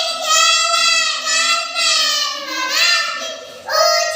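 A child singing a Hindi children's poem in a high sing-song voice, in two phrases with a short break for breath about three and a half seconds in.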